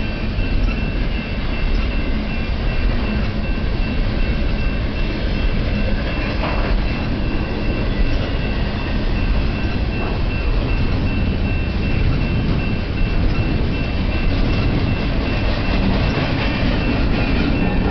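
Union Pacific double-stack intermodal well cars rolling slowly past on the rails: a steady low rumble of wheels on track, with a thin steady high tone over it and a couple of faint knocks.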